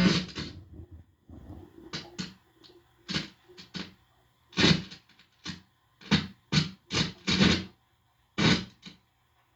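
Guitar amplifier putting out a loud steady buzz that cuts off at the start. It is followed by about a dozen short, irregular crackling, scratchy bursts with silent gaps between them, over a faint low mains hum. The sound comes from an aluminium mesh shield that is wired to the amp's input and is being touched and handled.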